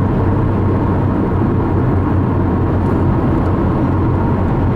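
Steady road and engine drone heard inside a moving car: a constant low hum with tyre noise over it.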